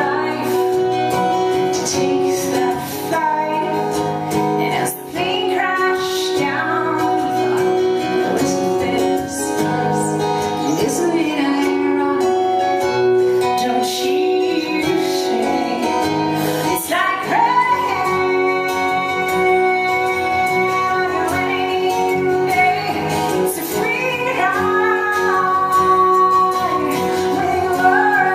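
A woman singing with band accompaniment, the voice rising and falling in long sung phrases over steady sustained instruments.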